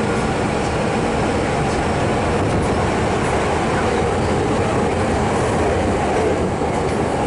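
Hankyu electric commuter train running, heard from inside the passenger car: a steady rumble of the wheels on the rails.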